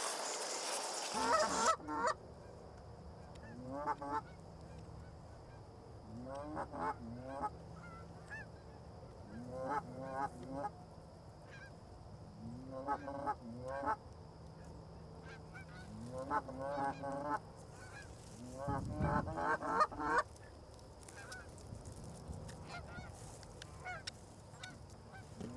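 Canada goose honking, in short bursts of several calls every two to three seconds.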